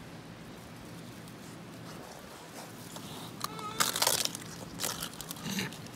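Pigs eating duck eggs, the shells crunching and cracking as they chew, with a cluster of sharp crunches about three and a half seconds in.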